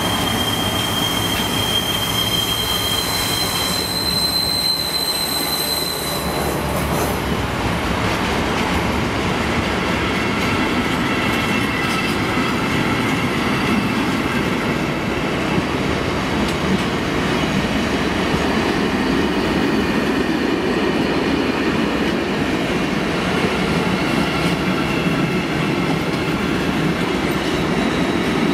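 A freight train of loaded bogie tank wagons rolling steadily past, wheels rumbling and clattering on the rails. Over the first few seconds there is a high steady wheel squeal that jumps up in pitch about three seconds in and dies away around six seconds in.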